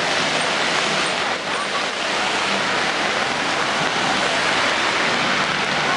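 Very heavy rain pouring and splashing on the street as a steady, dense hiss, with traffic running on the wet road.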